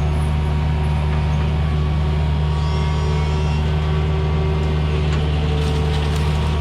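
Heavy equipment diesel engine of a forestry mulcher running at a constant speed, a loud, steady drone with no change in pitch.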